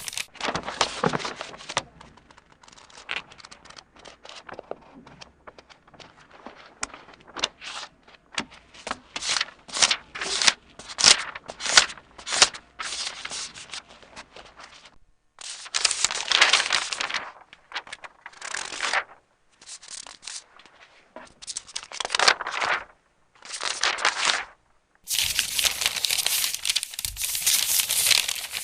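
Irregular bursts of crinkling, crackling noise, some a fraction of a second and some a second or two long, with a longer unbroken stretch over the last few seconds.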